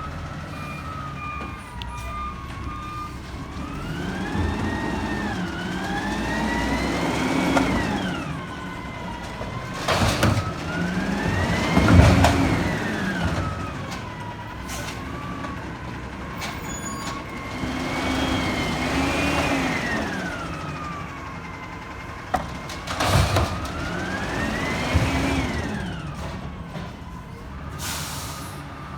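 Peterbilt 320 garbage truck's diesel engine revving up and back down about four times, with a rising and falling hydraulic whine, as it powers the Amrep body's hydraulics through a collection cycle. A few sharp clunks and bangs land among the revs.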